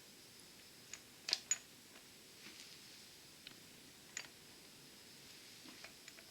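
Scattered light metallic clicks and clinks from small engine parts and tools being handled during a two-stroke engine teardown, with two sharper clicks in quick succession about a second and a half in. A faint steady high hum runs underneath.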